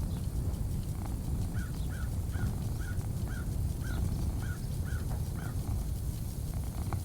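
A bird calling a run of about nine short, evenly spaced notes, roughly two a second, over a steady low rumble.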